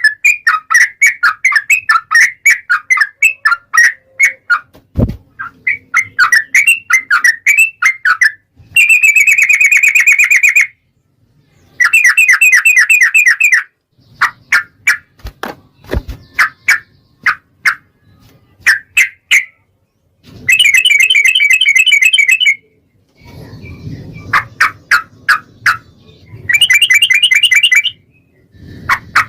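Yellow-vented bulbul singing a long, rapid song: quick runs of chirping notes alternate with dense, buzzing trills about two seconds long, broken by short silent gaps.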